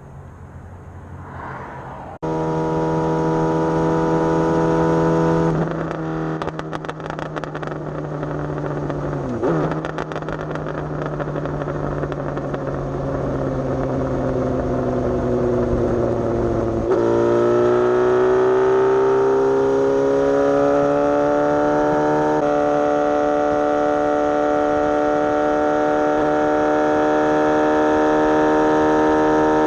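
Suzuki GSX-S750 motorcycle's inline-four engine running under way, a steady whine with wind noise. The engine note shifts abruptly a couple of times and climbs in pitch midway as the bike accelerates.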